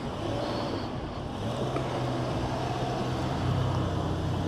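Motorcycle engine running at low revs, a steady hum whose pitch shifts slightly a little after a second in and again past three seconds, with street traffic around it.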